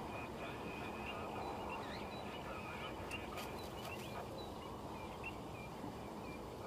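Outdoor bush ambience: a steady low background noise with scattered short, high bird chirps, and a thin steady high tone through the first half.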